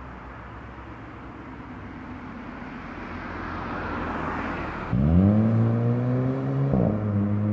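A car going by, its noise swelling to a peak about four seconds in. About a second later a steady low tone with overtones starts suddenly and holds.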